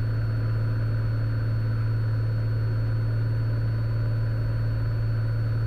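Steady drone of the Cessna Skylane's piston engine and propeller heard inside the cabin, even and unchanging, with a thin high steady tone running through it.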